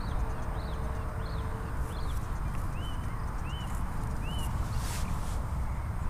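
A bird calling in short high chirps, about two a second, over a low steady rumble.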